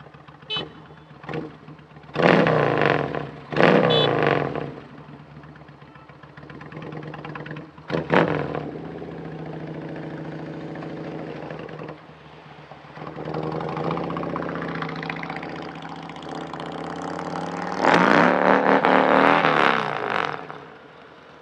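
Honda Navi 110cc motorcycle's single-cylinder engine running under way, revving up in several bursts. The longest and loudest burst comes near the end.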